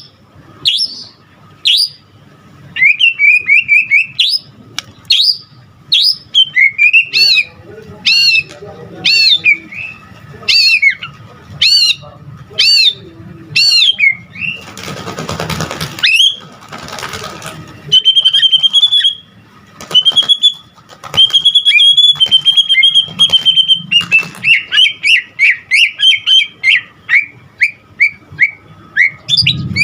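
White-rumped shama singing a loud, varied song of repeated whistled notes and quick chirps, its phrases packed with mimicked calls (full isian). About halfway through comes a harsh rasping stretch, followed by several held whistles and a fast run of chirps.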